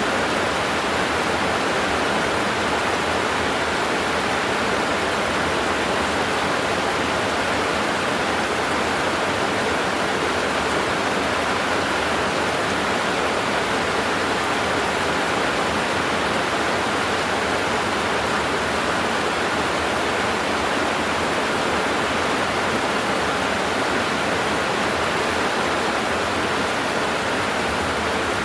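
Heavy rain pouring down in a steady, unbroken roar.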